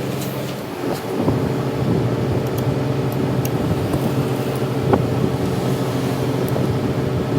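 A machine runs steadily with a low, even hum, with a few light clicks over it.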